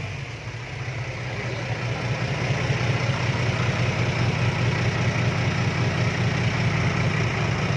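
Diesel dump truck engine idling through a loud aftermarket exhaust pipe: a steady low running note that grows louder over the first few seconds, then holds.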